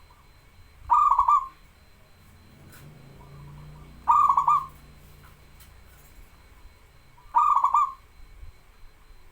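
Zebra dove (perkutut) cooing: three short, rapid pulsing coo phrases about three seconds apart. It is a local bird in full song.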